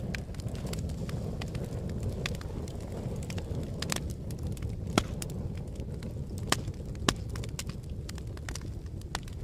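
Fire crackling and popping over a steady low rumble of flames, with irregular sharp pops, the loudest about five, six and a half and seven seconds in.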